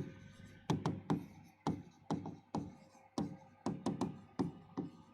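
A string of light, sharp taps or knocks, uneven in spacing, about three a second.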